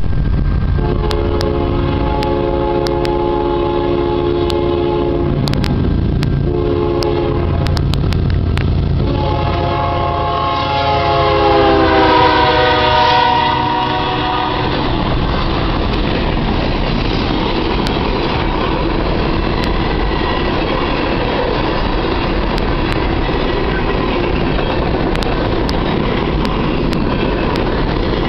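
BNSF coal train passing at about 55 mph. The lead diesel locomotives sound their multi-chime air horn in a long blast, a short one, then a long one that drops in pitch as they go by. This is followed by the steady clatter and rumble of coal hopper cars rolling past.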